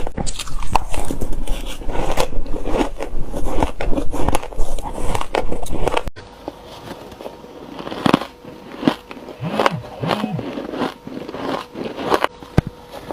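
Shaved ice being bitten and crunched by the spoonful close to the microphone. Dense, rapid crunching runs for about six seconds, then after a sudden cut come slower, quieter single crunches.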